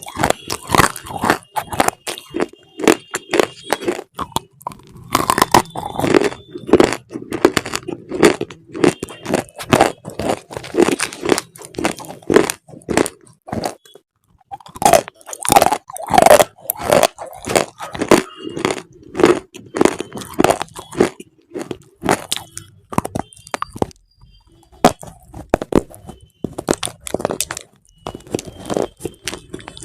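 Repeated crisp crunching, about two sharp crunches a second, with short pauses about halfway through and again about two-thirds of the way in.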